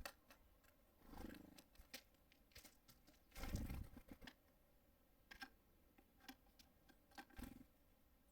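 Small birds at a wooden feeder: faint scattered taps and knocks as they land and peck, with a few short rustling bursts, the loudest about three and a half seconds in.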